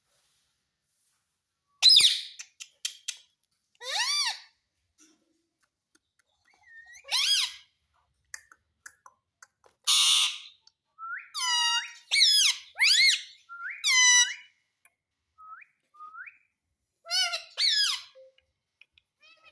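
Pet parrot calling: a loud squawk about two seconds in, then separate whistled call notes, a harsh screech about ten seconds in, and quick runs of calls after it.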